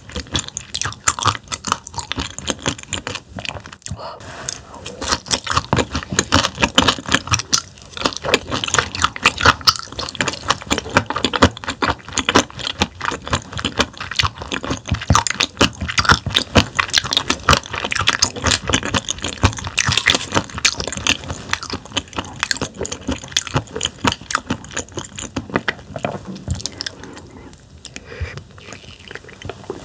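Close-miked chewing of thinly sliced, bone-in raw damselfish sashimi: fast crunching clicks as the tough little bones are bitten through, with brief pauses about 4 and 8 seconds in and again near the end.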